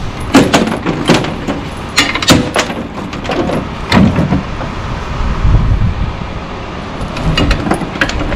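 Sharp metal clanks and knocks from a tractor's rear linkage and transport box being hitched and worked, over a steady low rumble. The knocks are thickest in the first half and come again near the end.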